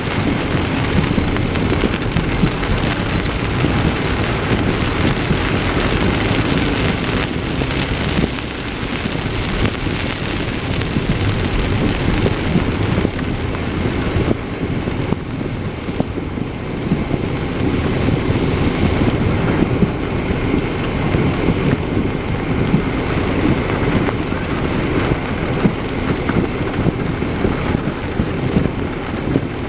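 Heavy rain beating steadily on a moving car, mixed with the low rush of tyres on a wet road.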